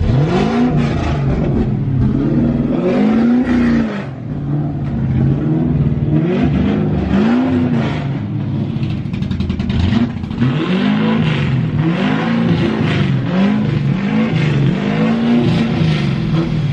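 Ford 5.0 V8 in a Foxbody Mustang being revved again and again in short blips, really, really loud. It will not idle on its own and is kept running by working the throttle with carb cleaner sprayed in, a rough running blamed on bad gas left sitting for about two years.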